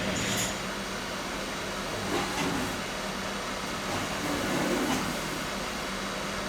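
Steady hiss of blowing air over a low steady hum, with a few faint clicks.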